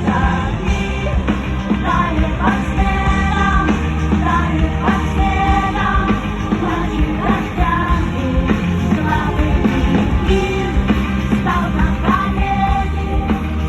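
Live rock band playing loud amplified music, with heavy bass and a melody line moving over it throughout.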